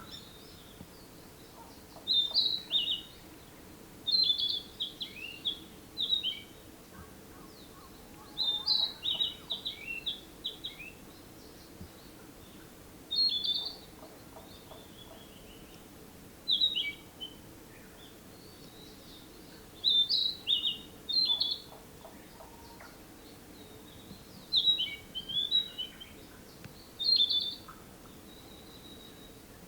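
Narcissus flycatcher singing: about eight short phrases of quick, varied high whistled notes, each a second or two long, repeated every few seconds. A faint steady low hum lies underneath.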